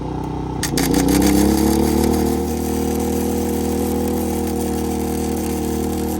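Flux-core wire welder arc crackling and hissing from about a second in, over a truck engine held at high idle to power the welder. The engine note sags and recovers as the arc loads it.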